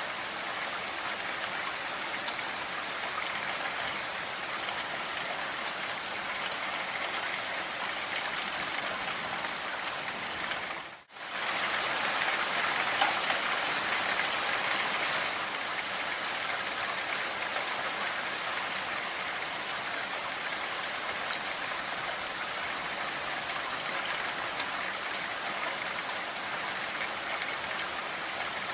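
Steady rain falling, an even hiss of many drops. About eleven seconds in it cuts out for a split second, then returns a little louder for a few seconds before settling back to its steady level.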